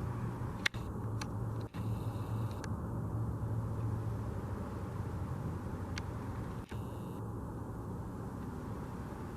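A steady low rumble of an engine or vehicle running, cut by a few very brief dropouts.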